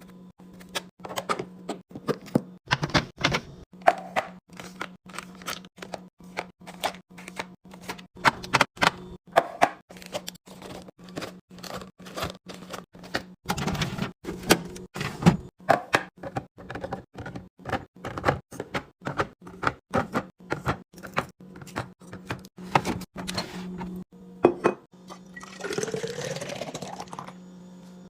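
Rapid clicks and knocks of containers, lids and items being handled and set down while restocking a fridge, over a steady low hum. Near the end, liquid pours into a container, its pitch rising as it fills.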